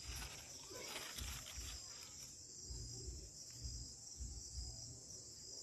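Steady high-pitched chorus of crickets, with irregular low rumbles on the microphone and some faint rustling in the first two seconds.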